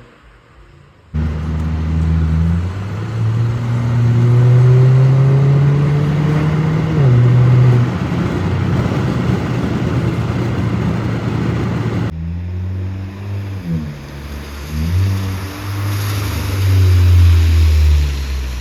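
Turbocharged 2.0-litre four-cylinder of a 2015 Volvo S60 T5 with aftermarket downpipe, catback exhaust and remap, running loud through the modified exhaust. It comes in abruptly about a second in, the revs climb steadily for several seconds and then drop sharply. After a sudden cut near the middle, the revs rise and fall in short blips.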